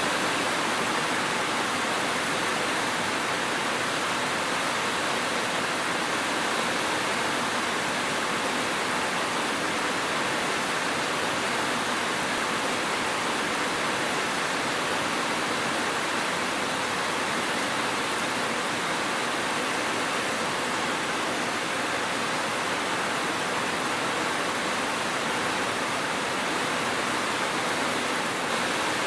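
Steady, dense rain, an even hiss with no single drops or thunder standing out.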